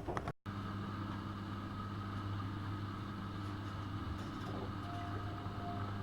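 AEG Öko-Lavamat 72520 washing machine running with a steady low electric hum. The sound cuts out for a moment just after the start, and a faint higher tone comes and goes in the second half.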